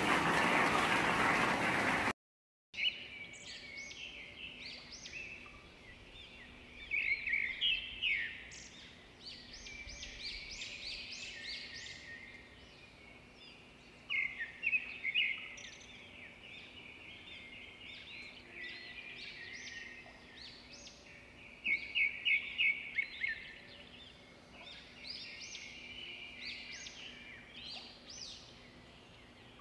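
A loud rush of noise cuts off about two seconds in. Then birds chirp and twitter, many short high calls coming in flurries, over a faint steady hum.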